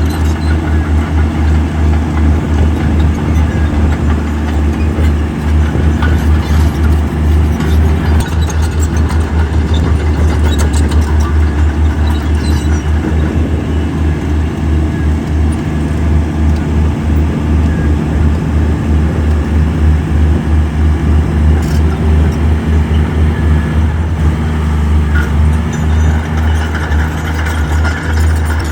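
Heavy diesel earthmoving machine engine running under load with a deep, pulsing throb, and scattered clanks and rattles.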